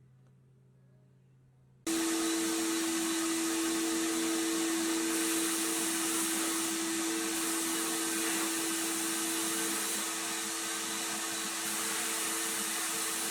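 A motor-driven workshop machine starts suddenly about two seconds in and runs steadily, a loud hiss over a steady hum.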